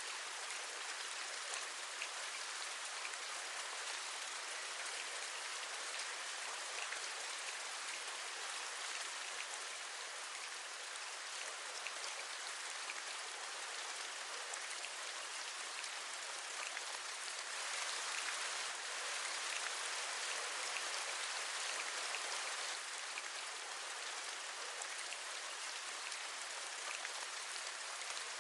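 Steady rain, with many individual drops tapping. It swells slightly for a few seconds past the middle.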